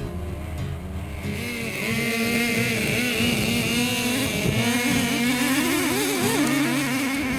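Small nitro RC truck engine running at high revs, its pitch wavering up and down with the throttle; it gets louder from about a second in.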